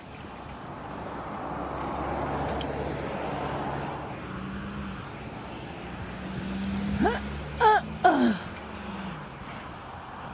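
Road traffic: a vehicle passes, followed by the steady low hum of a motor. Near the end come three short, loud, wavering calls.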